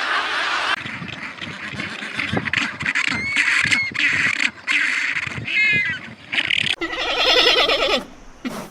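Farm animals calling: a string of short, high calls, then one longer call with a rich, buzzy tone about seven seconds in.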